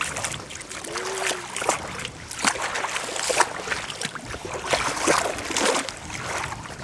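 Shallow seawater splashing at the shoreline in a run of irregular splashes.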